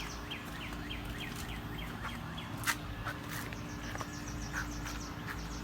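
A bird calling: a run of short falling chirps, about four a second, that stops about halfway through, with a couple of sharp clicks near the middle over a faint steady hum.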